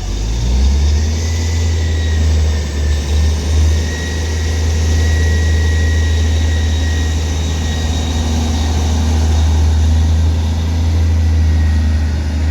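A double East Midlands Railway Class 158 diesel multiple unit's underfloor diesel engines running under power as the train pulls away. The sound is a loud, steady, deep rumble.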